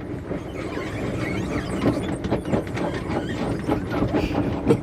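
Belanger SpinLite car wash shine mitt brushes spinning against the car, squealing in short squeaks over a steady scrubbing and water noise.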